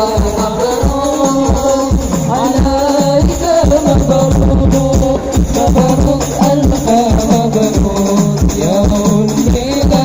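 Habsyi (hadrah) ensemble playing a sholawat song: rebana frame drums and jingling hand percussion beat a steady, busy rhythm under a sung melody.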